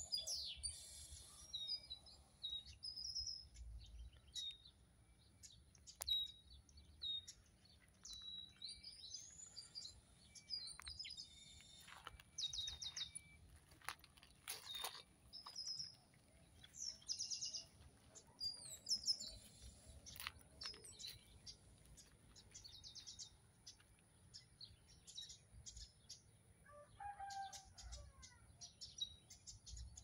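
Several wild birds calling and singing: many short, varied chirps and whistles coming one after another, with a lower call near the end. A steady high tone runs underneath.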